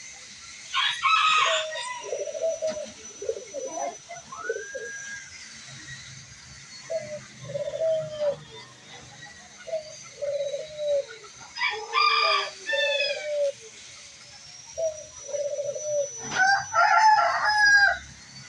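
A bantam rooster crowing three times, with doves cooing in repeated low phrases in between.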